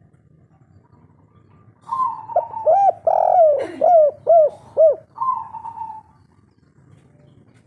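Spotted dove (derkuku/tekukur) cooing. The phrase begins about two seconds in and runs as a string of short rounded coos with one louder note in the middle, ending on a last coo about six seconds in; this is the local 'kuk 3' song type.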